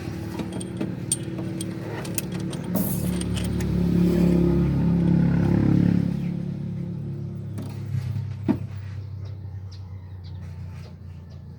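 A motor vehicle's engine running, growing louder to a peak a few seconds in and then fading away, with scattered light metallic clicks over it.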